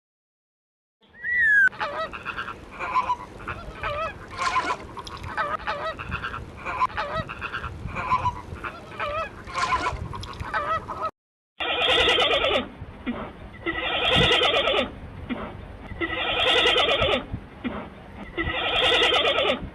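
Animal calls from two clips: first a run of short, repeated pitched calls, then after a brief silence, loud calls in bursts about every two and a half seconds.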